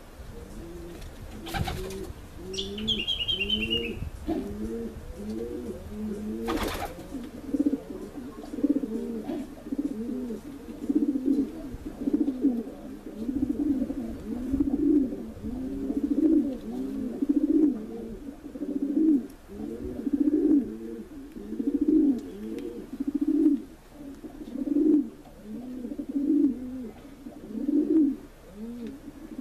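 Several pigeons cooing over one another, a steady run of low, arching coos repeating about once a second. A short high twittering chirp comes about three seconds in, and there are two sharp clicks early on, the second one about seven seconds in.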